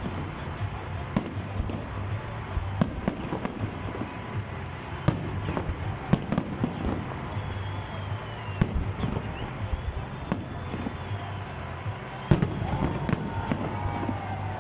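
Fireworks display: irregular sharp bangs of shells bursting, one after another at uneven intervals, with a few faint whistling glides in the second half.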